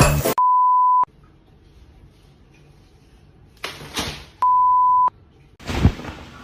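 Two identical electronic beeps, each a steady single-pitch tone about two-thirds of a second long, about four seconds apart.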